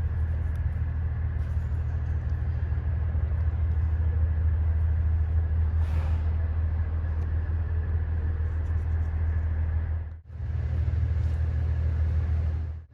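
Steady low rumble of an idling vehicle engine, with a faint steady whine above it; it drops out briefly about ten seconds in.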